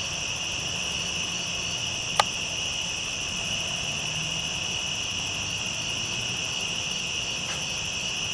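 A steady chorus of night-calling insects, made of continuous high-pitched trilling. There is a single sharp click about two seconds in.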